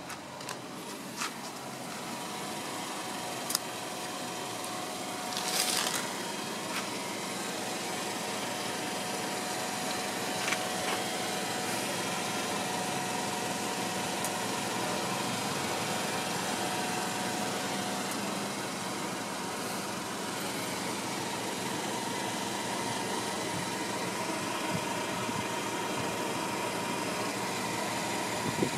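Car engine idling steadily, with a few sharp handling clicks and a brief rustle in the first few seconds.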